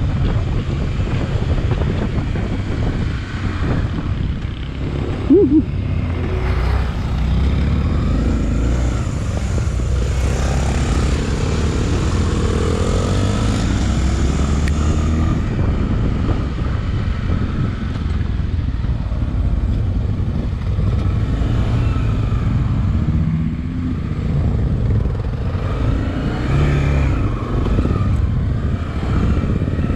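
Honda XRE300's single-cylinder engine running steadily while the motorcycle is ridden, heard from on the bike. A brief loud squeak-like blip about five seconds in.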